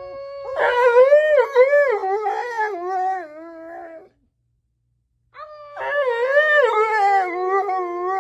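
A dog howling: two long, wavering howls with a second's break between them about four seconds in.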